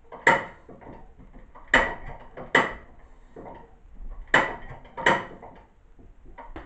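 1936 International Harvester LA stationary engine being turned over by hand with the choke closed to prime it: five sharp metallic clacks from the turning engine, some in pairs, before it has started.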